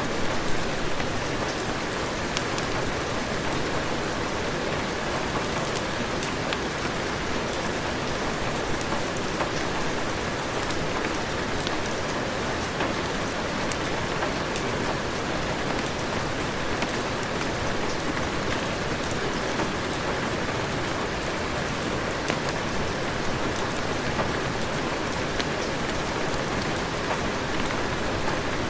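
Steady heavy rain, an even unbroken hiss with many scattered sharp drop ticks.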